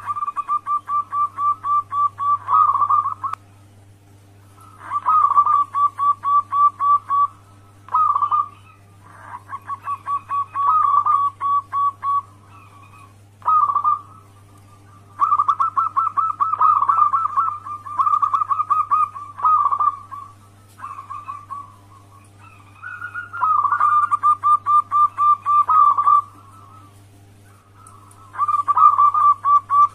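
Zebra dove (perkutut) cooing in repeated bouts of quick rippling notes, about four or five a second, each bout two to three seconds long with short pauses between. A low steady hum runs underneath.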